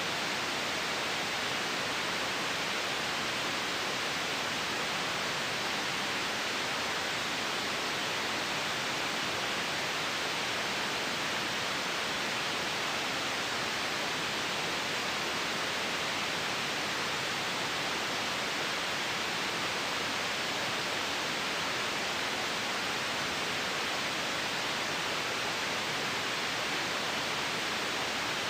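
Steady white noise: an even, unchanging hiss with no breaks or other sounds.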